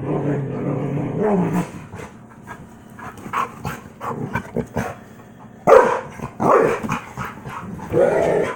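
Dogs play-fighting: a low growl for the first couple of seconds, then short yips and scuffling, with loud barks about six seconds in and again near the end.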